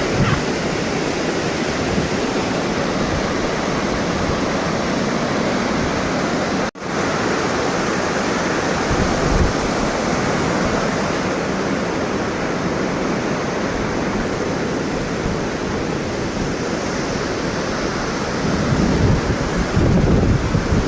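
Steady rushing roar of a 74-metre waterfall's plunging water, cut off for an instant about a third of the way in. Wind buffets the microphone near the end.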